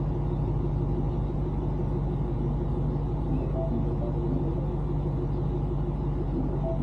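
A vehicle engine idling, a steady low hum with no change in pitch.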